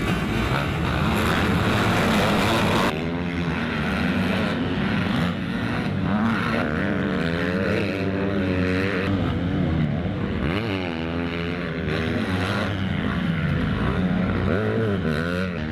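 Motocross motorcycle engines racing, revving up and down as the bikes work through the gears. Several rising and falling engine notes overlap after about three seconds, following a noisier rush at the start.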